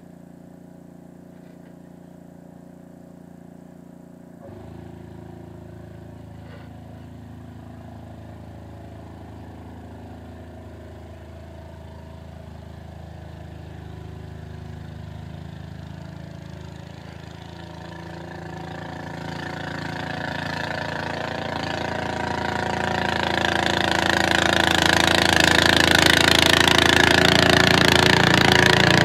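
Small engine running steadily; about four seconds in its note changes and it gets a little louder. Over the last ten seconds a harsh rushing noise builds on top, and the engine grows much louder.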